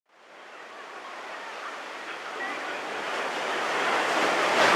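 Sea waves washing ashore: a rushing noise that grows steadily louder and peaks shortly before the end.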